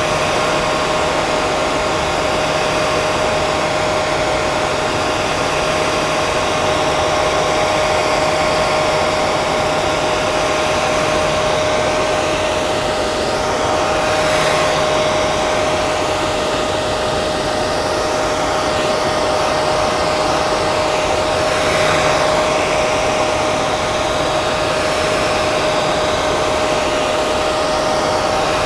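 Hair dryer running steadily, a rush of blown air over a steady motor hum.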